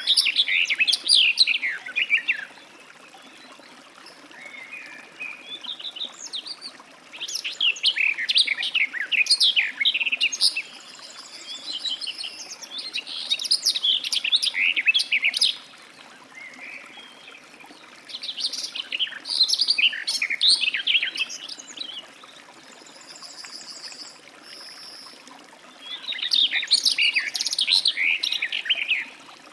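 Garden warbler singing: five long, fast warbling phrases of two to four seconds each, with short pauses between them.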